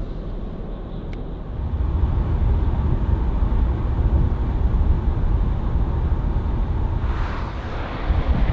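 Volvo truck driving on the road: a steady low engine and road rumble that grows louder about one and a half seconds in, with road hiss rising near the end.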